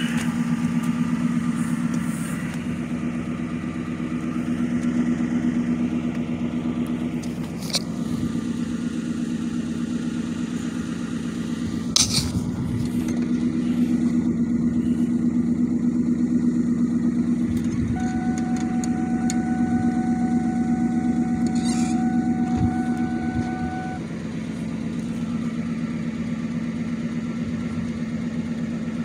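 Ford Mustang GT's V8 idling steadily while it warms up after a cold start.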